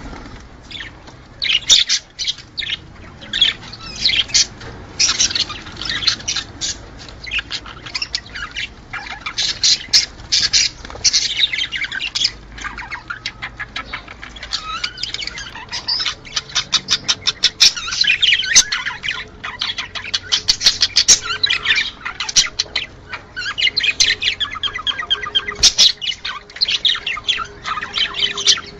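Budgerigars chattering and warbling with chirps, squawks and fast runs of clicking notes, several birds calling over one another without a break.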